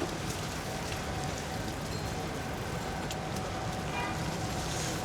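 Steady road noise from a bicycle ride on wet, slushy city streets: tyres on slush and wind on the microphone, with traffic around.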